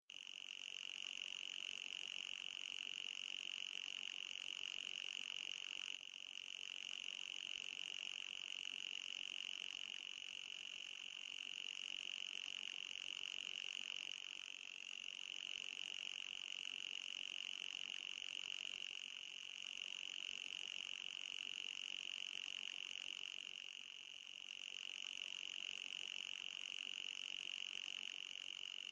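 Synthesized anti-mosquito repeller tone: a steady high-pitched electronic whine with a fainter, higher layer above it, running without a break.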